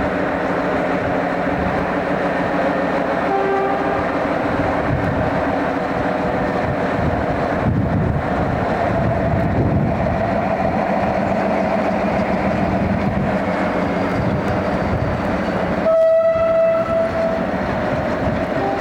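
A train running with a steady engine drone. A brief pitched tone sounds a few seconds in, and a loud horn blast lasting about a second and a half comes near the end.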